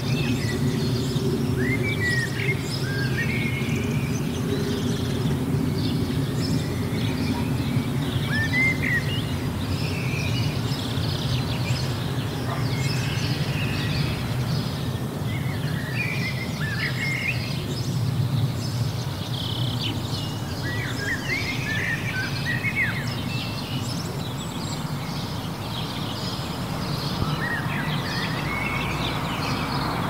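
Birds chirping and calling, with many short rising and falling chirps scattered throughout, over a steady low background rumble. A broad hiss swells near the end.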